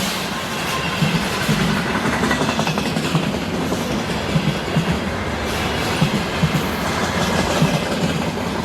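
Freight train wagons rolling past on the rails: a steady rumble with irregular clacks of wheels over the rail joints.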